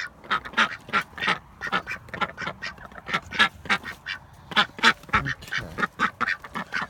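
A flock of domestic ducks quacking, many short quacks overlapping in quick succession.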